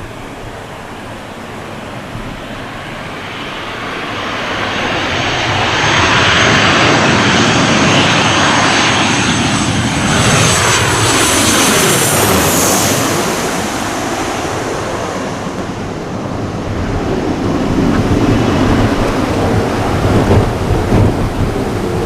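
A Boeing 737-800 jet airliner with CFM56 turbofans passing close overhead. Its roar builds, and a high fan whine and the engine tones fall in pitch as it goes by. The roar eases, then a gusty low rumble swells again near the end.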